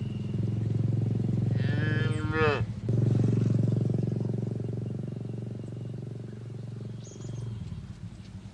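Cattle mooing: a long low moo that fades near the end, with a higher call that falls in pitch about two seconds in.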